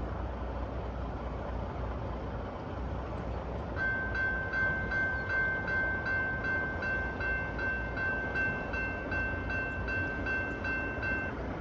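Railroad grade-crossing bell dinging about three times a second, starting about four seconds in and cutting off near the end, over a steady low rumble.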